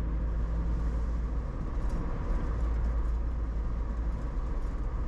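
Steady road and engine rumble heard from inside a moving vehicle's cabin, mostly a deep low drone.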